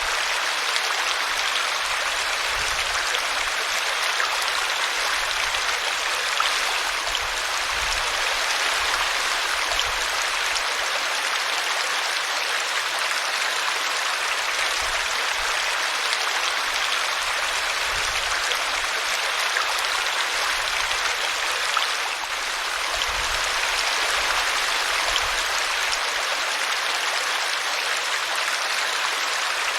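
A small brooklet splashing and trickling over a tree root, a steady rushing of water with no break.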